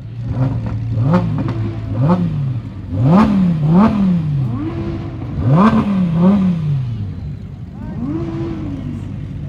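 Car engine revved in quick blips from idle, about seven times, the pitch rising sharply and falling back each time, some blips in quick pairs.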